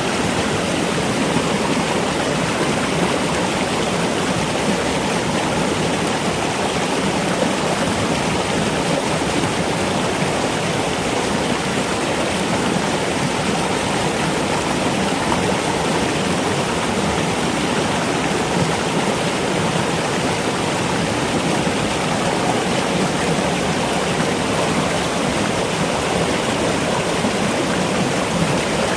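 Steady, even rush of running water, like a stream flowing, with no change in level throughout.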